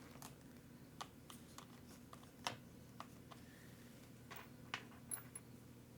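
Light, irregular clicks and taps of small RC truggy parts being handled and test-fitted on a workbench, about a dozen over a few seconds, with one sharper click about halfway through.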